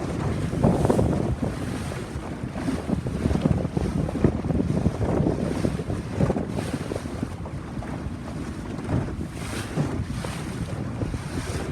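Wind buffeting the microphone on a moving boat, gusting unevenly, over the rush of sea water.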